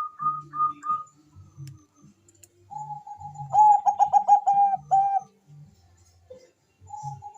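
Zebra dove (Bangkok perkutut) cooing in fast runs of short staccato notes. A higher-pitched run fades out about a second in. After a pause a lower run builds into a loud burst of about seven quick notes, then starts again near the end.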